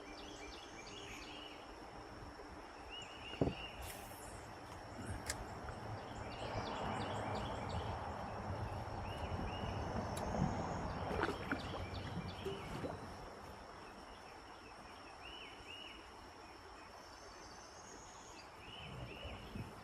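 Riverside ambience: a steady high insect drone with repeated short bird chirps, and a swell of hissing noise about six to twelve seconds in, with a few faint clicks.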